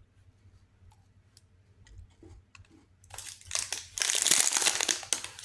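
Plastic protein-bar wrapper crinkling as it is handled, starting about three seconds in and lasting a couple of seconds, after a few faint clicks.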